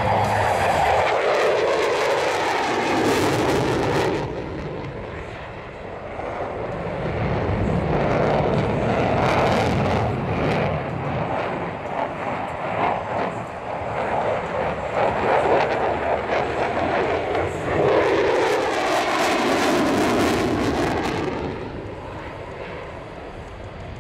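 F-16 fighter jet's engine noise swelling and fading three times as the jet flies a tight, accelerating 9G turn past the crowd. Its pitch sweeps downward as it passes near the start and again about twenty seconds in.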